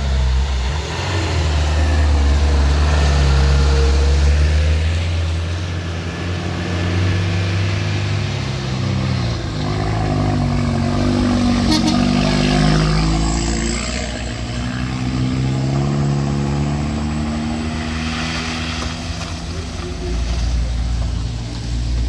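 Motor vehicle engine running under load close by, a strong low note whose revs rise and fall several times around the middle.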